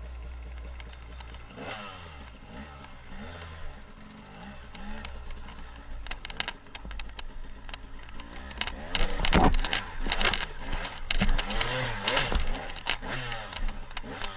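Dirt bike engine revving up and down as it rides the trail, with sharp knocks and bumps that are loudest in the second half.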